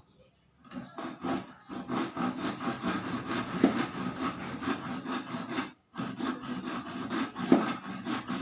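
Hand saw cutting a wooden batten in steady back-and-forth strokes. The sawing starts about a second in and stops briefly about six seconds in before resuming.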